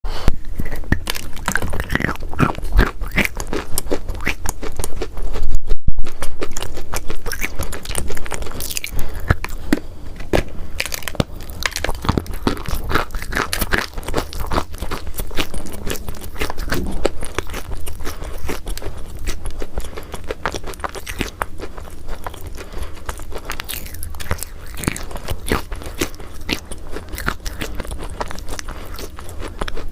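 Pieces of chalk being bitten and chewed, a steady run of dry, irregular crunches and cracks. The loudest bites come about five to six seconds in.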